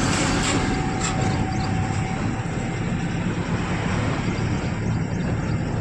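Truck engine and road noise while driving: a steady low hum under an even rumble.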